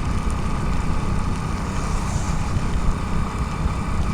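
Steady noise of a motorcycle ride in heavy rain, heard from a helmet-mounted camera: engine running under way, with wind and rain on the microphone.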